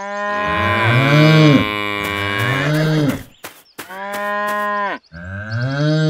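Cow mooing: three long, loud calls, the first lasting about three seconds, the second shorter, and the third starting near the end.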